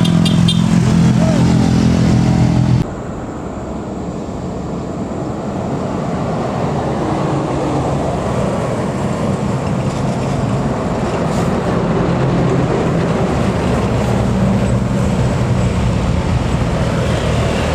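Heavy diesel truck engine running steadily under load for about three seconds, then an abrupt break. A noisier truck-and-road sound follows, slowly growing louder as another vehicle comes closer.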